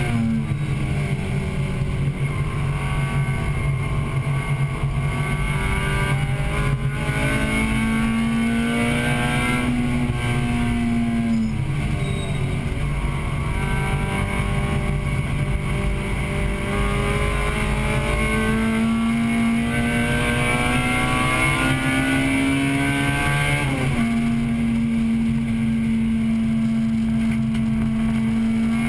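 1998 Acura Integra Type-R's 1.8-litre VTEC four-cylinder engine at racing speed, heard from inside the cabin: the engine note climbs and falls with the throttle, drops sharply at a few gear changes, and holds a high steady pitch for long stretches.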